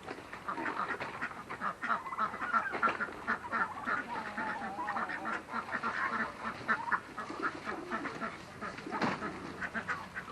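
A flock of farm poultry calling over one another in many short, overlapping calls.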